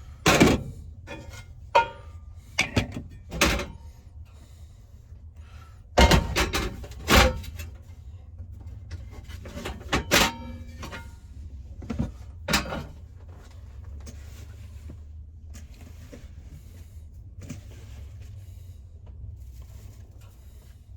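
A run of knocks, thunks and clatters for about the first thirteen seconds, like gear being moved about and a door or lid shut in a small space, over a low steady rumble that carries on alone after.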